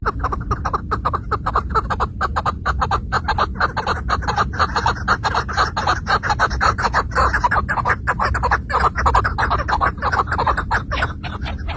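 Chukar partridge calling: a fast, unbroken run of short clucking notes, several a second, over a steady low rumble.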